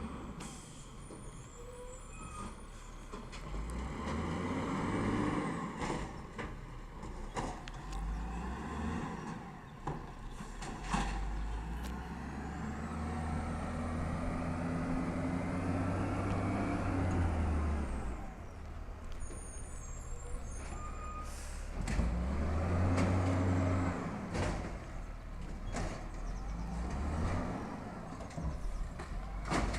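Peterbilt 320 automated side-loader garbage truck at work: its engine revs up and falls back in several spells, with a faint high whine during the longest rev. Sharp knocks and clatter come through, along with air-brake hisses.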